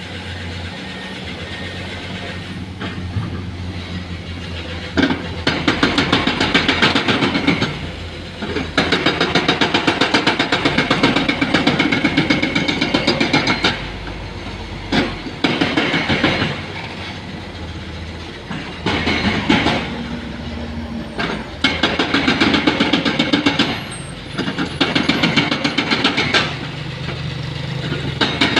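Hydraulic rock breaker on a Komatsu excavator hammering rock in bursts of rapid blows, each lasting a few seconds, with the excavator's diesel engine running steadily in the pauses between.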